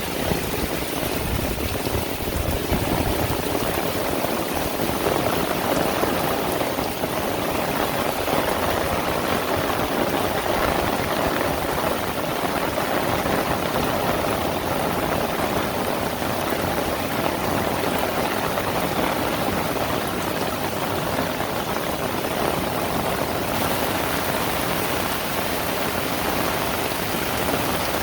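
Heavy rain falling steadily, a dense even hiss; its higher part grows brighter a few seconds before the end.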